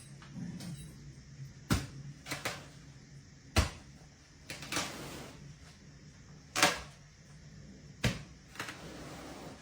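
Irregular sharp knocks and short scraping rustles, about seven in all, as rice straw is dragged out with a rake.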